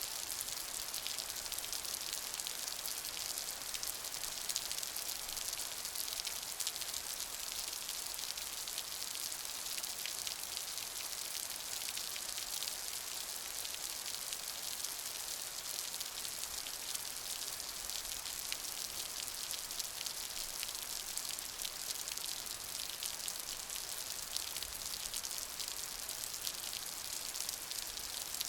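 Steady rainfall: a dense, even hiss of many fine drops pattering, with no change in intensity.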